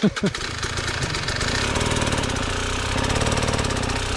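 Two-stroke KTM 300 enduro motorcycle engine running at steady revs, its rapid even firing pulses growing a little louder a couple of seconds in.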